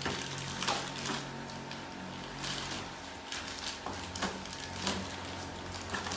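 A series of irregular short clicks and knocks, about eight of them, over a steady low hum.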